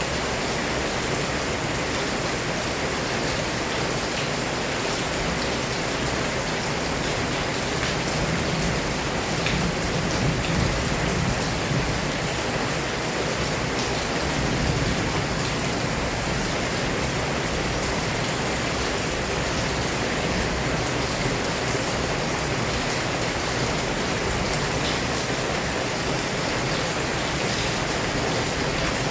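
Heavy rain falling steadily, a dense even hiss with small swells in intensity about a third and halfway through.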